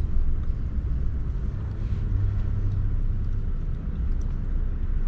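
Pickup truck engine running, a steady low rumble.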